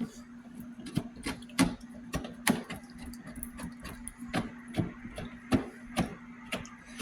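Irregular sharp clicks and knocks, one or two a second, over a steady low hum.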